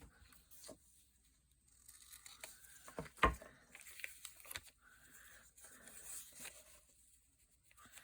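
Cloth tape being torn and pressed onto paper, with rustling and small taps and one sharper knock about three seconds in.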